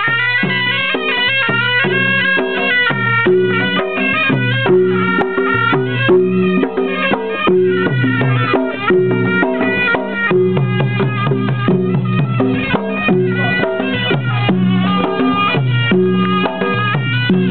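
Traditional folk music: a reedy wind instrument playing a fast, unbroken melody over drums.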